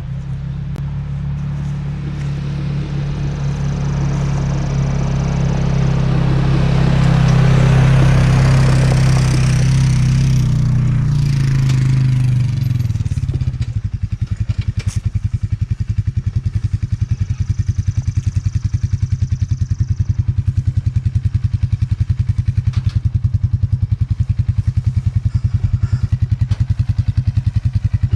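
A gasoline engine runs steadily with a rising hiss over it. About 13 seconds in it settles into an even, fast throbbing beat.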